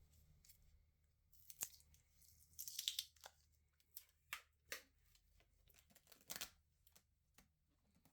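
Adhesive tape being pulled and torn in a series of short, sharp tearing and crinkling sounds, the longest and loudest about three seconds in.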